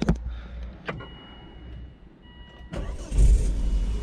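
Volvo V70's 2.4-litre non-turbo five-cylinder petrol engine starting after a couple of clicks: it catches almost three seconds in and runs on. This is its first start on new spark plugs fitted to cure a misfire, and it starts really well.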